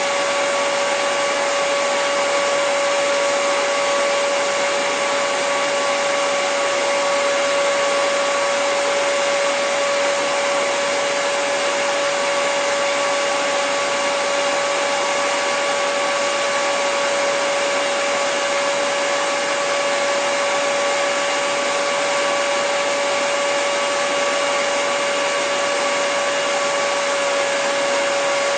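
Hair dryer running continuously at a steady speed: an even rushing airflow with a constant motor whine, unchanging throughout.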